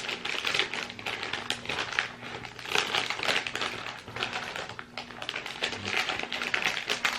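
Plastic snack packaging crinkling and crackling in the hands, a dense run of irregular rustling clicks as the packet is handled and opened.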